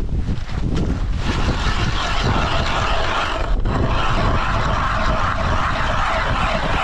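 Ice auger boring a new hole through lake ice: a steady drilling noise that starts about a second in and dips briefly midway. Wind noise on the microphone lies under it.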